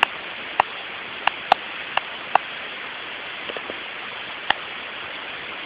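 Irregular sharp clicks, about eight of them spread unevenly, over a steady hiss.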